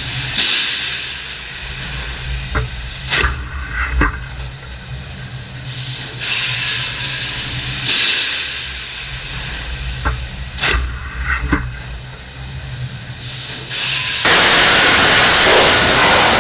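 Truck assembly-line machinery: a steady low hum with hisses of air and scattered clanks. About fourteen seconds in, a much louder rush of steady noise cuts in suddenly.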